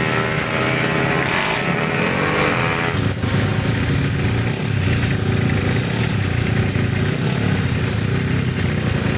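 Two-stroke race motorcycle engines running hard, their pitch rising and falling as the riders work the throttle; the sound shifts abruptly about three seconds in.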